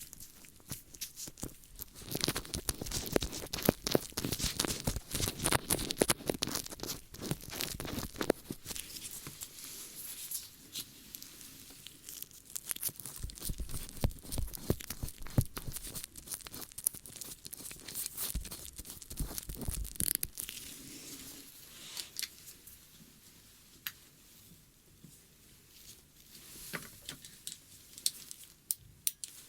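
ASMR ear-cleaning sounds close to the microphone: dense crackling and scratching, thickest for the first twenty seconds or so, then thinning to scattered crackles.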